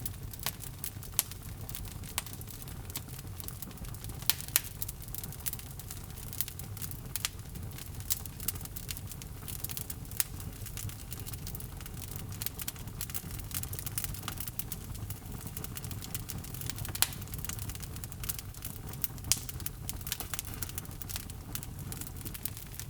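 Wood fire in a fireplace burning with a steady low rumble and frequent crackling, with a few louder sharp pops, about four and a half seconds in, at ten seconds and at seventeen seconds.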